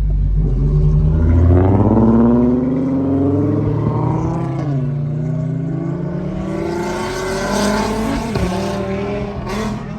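Loud engine and near-unsilenced exhaust of a performance car accelerating hard. It rises in pitch, drops at a gear change about five seconds in, then climbs again before easing off near the end.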